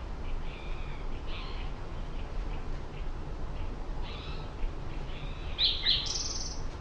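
Small songbirds chirping in short, scattered calls, the loudest pair near the end followed by a brief buzzy trill, over a steady low background rumble.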